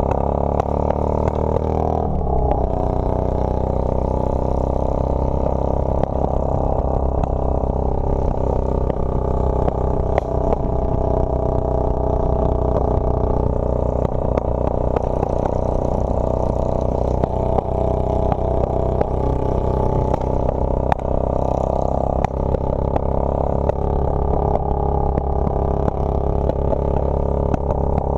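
Motorcycle engine running steadily under way, its note dropping and picking up again about two seconds in, with scattered light clatter.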